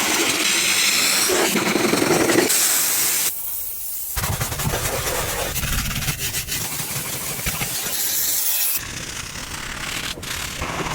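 Car-wash spraying: the steady hiss of a pressure washer or foam sprayer on the car, in several short clips cut together, with a duller, deeper-sounding stretch in the middle.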